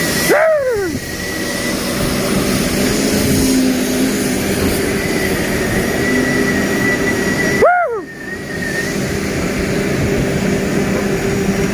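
Steady engine and machinery noise with a faint steady whine. A short rising-and-falling whooping call cuts in just after the start and again about eight seconds in.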